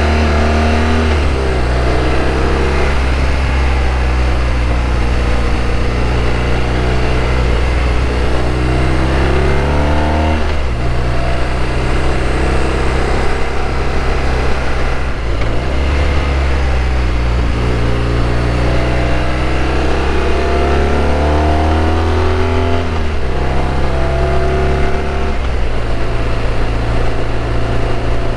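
BMW R1200RT's boxer-twin engine pulling hard, its pitch climbing and then dropping back several times as the rider accelerates and shifts. Wind rushes past the rider throughout.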